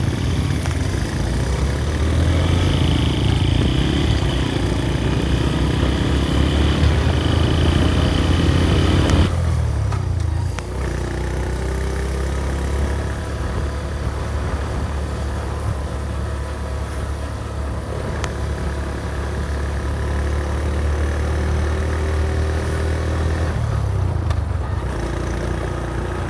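Small motorcycle engine running on the move, with wind and road noise on the microphone. The sound changes abruptly about 9 seconds in, after which the Honda Magna 50's small single-cylinder engine carries on, its pitch rising and falling now and then.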